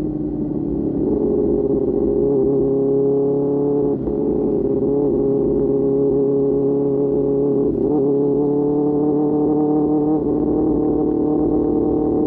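QJ Motor SRK600's inline-four engine running through an aftermarket SC-Project exhaust at steady cruising revs, with brief small changes in pitch about 4 and 8 seconds in as the throttle shifts.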